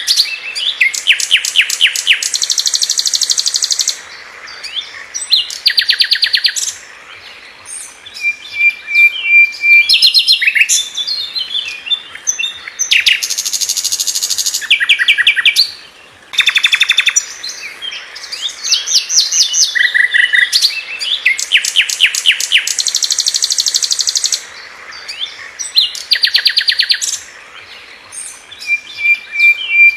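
A sikatan londo, a flycatcher, singing loud phrases of very fast repeated notes, each phrase a second or two long with short pauses between, and a few short held whistles in the gaps.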